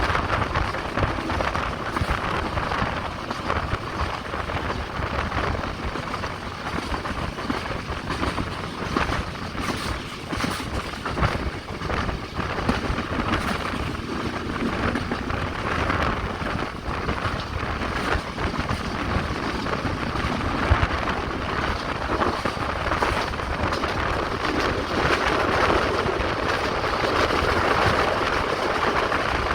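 Express passenger train running along the track: a steady rumble and rushing noise with scattered short clicks, continuing without a break.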